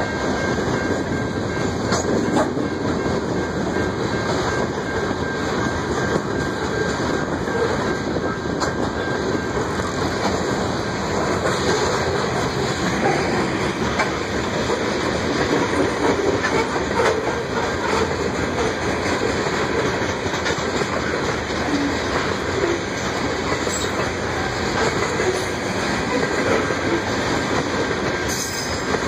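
Coal train's open-top coal cars rolling past close by: a steady din of steel wheels on rail, with an occasional sharp clack.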